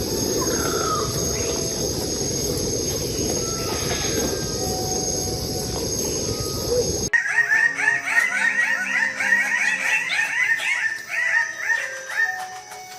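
Steady rushing noise with a high, even hum and a few faint whistled bird notes, then an abrupt cut to birds giving a rapid chattering series of short repeated calls that fades near the end.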